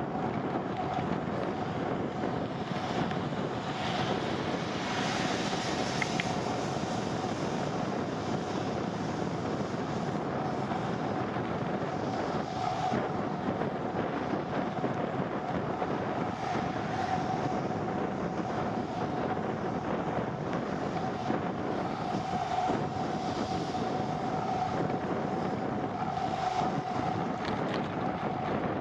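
Steady wind and road noise from a moving bicycle, with wind buffeting the microphone and a faint steady hum on top.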